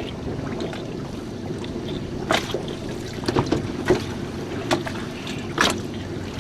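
Jon boat out on the open sea: a steady low rumble of wind and water, broken by about five sharp knocks.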